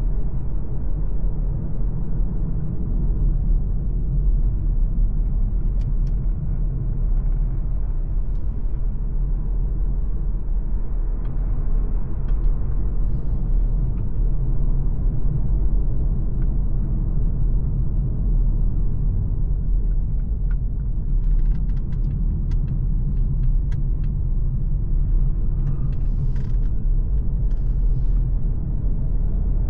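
MG ZS Hybrid+ on the move: a steady low rumble of tyres, road and drivetrain, with faint scattered ticks over it.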